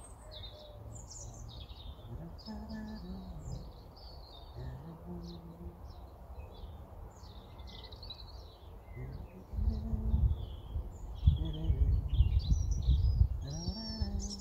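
Small birds chirping and trilling over and over, with a low rumble beneath that grows much louder about two-thirds of the way through.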